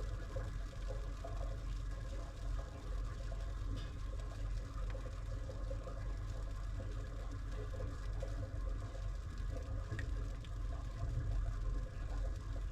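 Washing machine running through its wash: water moving and churning in the drum over a steady low hum from the machine.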